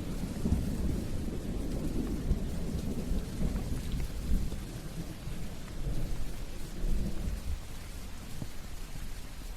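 Steady rain with a low rolling rumble of thunder underneath, the rumble fading away toward the end.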